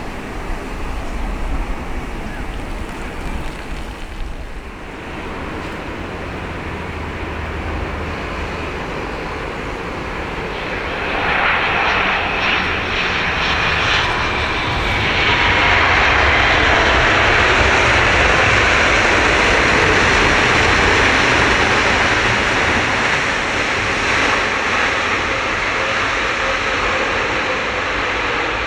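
Boeing 787-8 airliner landing, its jet engines swelling to a loud rushing noise with a falling whine as it passes close, then easing off slightly near the end.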